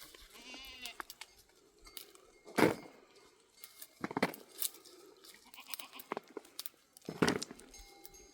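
A short, wavering bleat from livestock about half a second in. Several sharp crackling, rustling hits follow, the loudest a little over two and a half seconds in.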